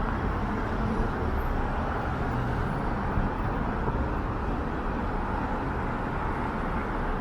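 Steady city street traffic: cars passing in a continuous wash of road noise.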